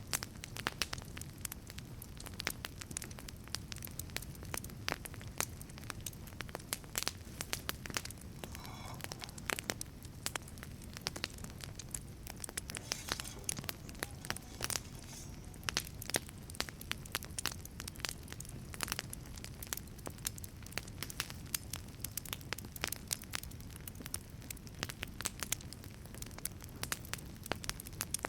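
Wood fire burning in a wood-fired pizza oven, crackling with frequent sharp pops over a low, steady rumble of flame. Faint hissing comes through briefly about a third of the way in and again around halfway.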